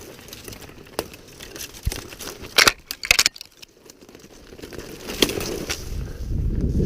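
Dry grass and brush rustling and crackling as hunters walk through upland cover, with a few sharp jingle-like clicks about halfway through and a low rumble building toward the end.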